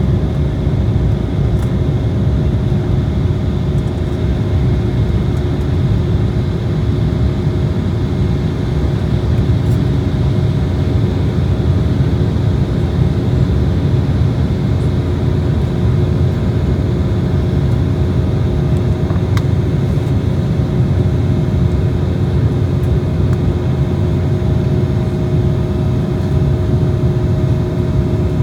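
Cabin noise of an Embraer jet airliner under way: a loud, steady low rumble of engines and airflow, with several steady engine whine tones above it.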